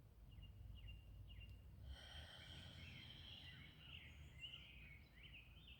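Faint outdoor birdsong: scattered short chirps, then a fuller, more continuous song from about two seconds in, over a steady low rumble.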